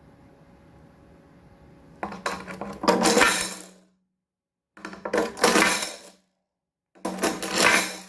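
A pile of coins jingling and clattering, in three bursts of about a second each with silence between, starting about two seconds in.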